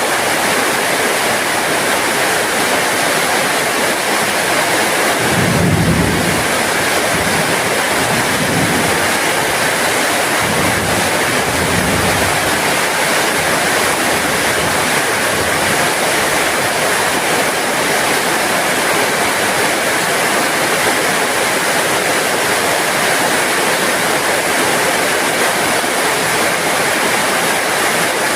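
Steady heavy rain falling, an even hiss throughout. A few low rumbles come through between about five and thirteen seconds in.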